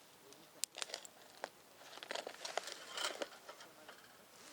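Crinkling and rustling with several sharp clicks, busiest between about two and three seconds in.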